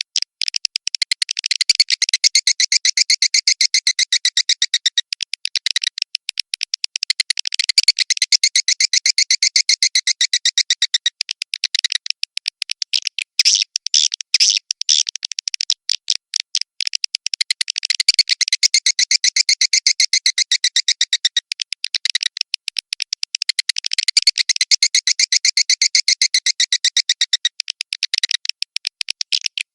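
Swiftlet-house lure recording: a dense, continuous twittering of swiftlet calls, rapid high chirps in phrases that repeat every few seconds.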